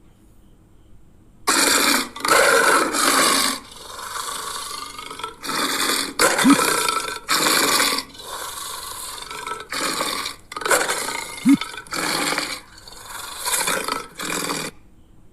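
An animal calling over and over in harsh, rasping bursts, about a dozen of them, each half a second to a second long, starting after a short pause.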